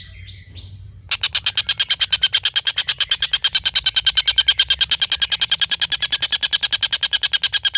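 Collared kingfisher (tengkek buto) giving its long cackling call: a fast, even string of sharp repeated notes, about nine a second, starting about a second in after a few softer chirps.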